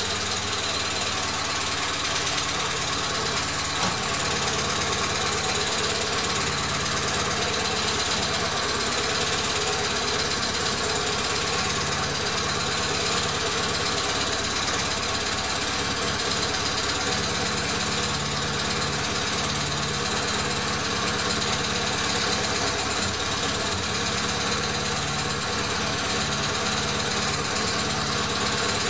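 Renault F7R 2.0 16-valve four-cylinder engine idling steadily. Its exhaust is disconnected below the manifold and the head-to-manifold gasket is missing, so exhaust blows out loudly. A light hydraulic lifter tick is heard, from lifters that are still filling after the engine sat for months.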